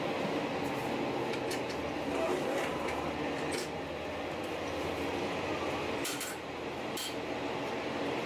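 Inside a JR Shikoku 1000 series diesel railcar under way: steady engine and wheel running noise, with a few sharp clicks and ticks from the running gear and body.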